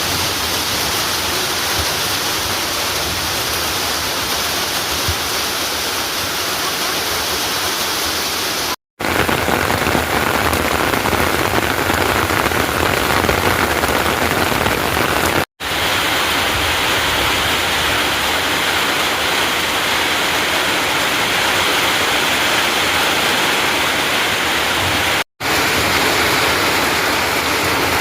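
Heavy rain falling steadily, a loud even hiss, broken by three split-second silent gaps.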